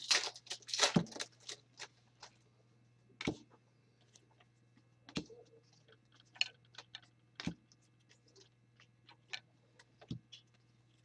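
Trading cards being handled on a table: a rustling, crinkling stretch in the first second or so, then scattered sharp clicks and taps of cards being sorted, over a faint steady low hum.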